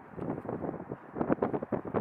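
Wind buffeting the microphone in uneven gusts, a rumbling that rises and falls sharply several times.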